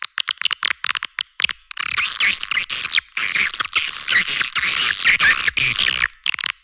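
Swiftlet lure call recording: a dense, rapid twittering of swiftlet chirps and clicks, high-pitched with nothing in the low range, broken by short pauses. It is the kind of call played to attract swiftlets to roost and nest.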